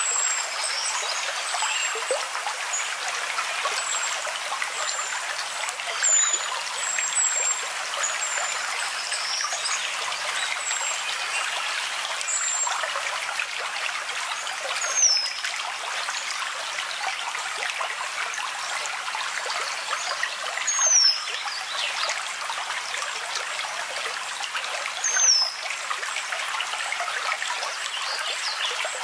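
Running water, a stream trickling steadily, with thin high bird chirps throughout and a few short, high, falling calls spaced several seconds apart in the second half.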